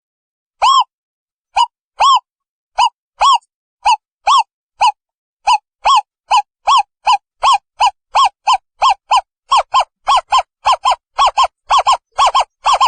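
Asian barred owlet calling: a long series of short hooting notes, each bending up and down in pitch. The notes start about a second apart and speed up to about three a second.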